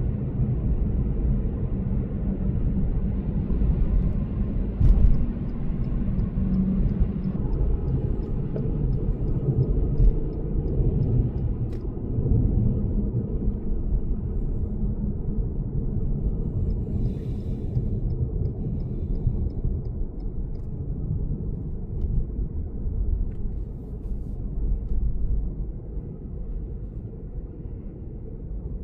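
Steady low rumble of road and tyre noise heard from inside a moving Lexus GS450h, with a few faint clicks and ticks on top.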